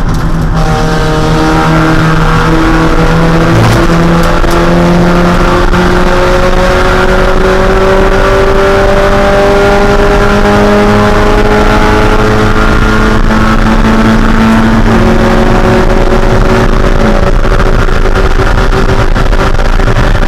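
1.6-litre Mazda Miata four-cylinder race engine running under load, its pitch climbing slowly. The pitch drops about two-thirds of the way through, as at a gear change, then starts climbing again, over steady wind and road noise.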